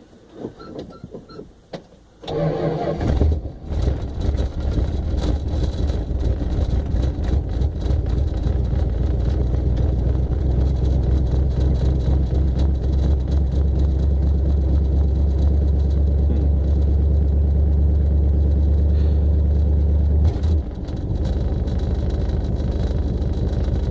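1964 Chrysler New Yorker's 413 V8 cold-starting on a freshly primed carburetor: it fires about two seconds in and settles into a steady fast idle. The idle drops lower about twenty seconds in.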